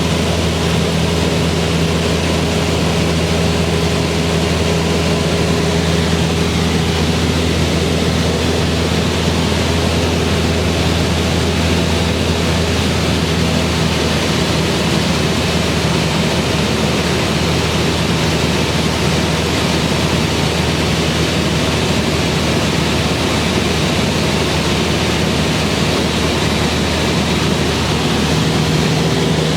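Cessna 172R's four-cylinder Lycoming engine and propeller running steadily in flight under a heavy rush of airflow noise. The engine hum weakens about halfway through and strengthens again near the end.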